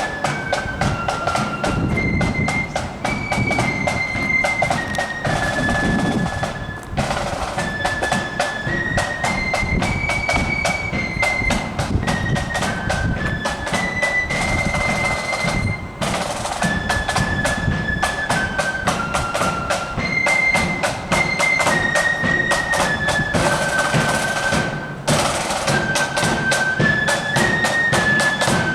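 Marching flute band playing a tune, the high flute melody over steady snare and bass drum beats, with short breaks between phrases.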